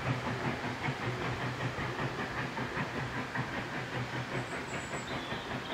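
Steam train running: a steady rumble with fast, rhythmic clatter and hiss.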